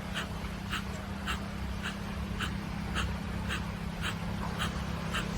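Kapalabhati breathing: short, forceful exhalations through the nose, each with a snap of the navel, repeating evenly at about two strokes per second, the advanced pace of the practice. A steady low hum runs underneath.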